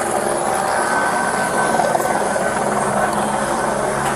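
Steady drone of a police helicopter's engine and rotor, heard from inside the aircraft, with a faint thin high tone for a couple of seconds in the middle.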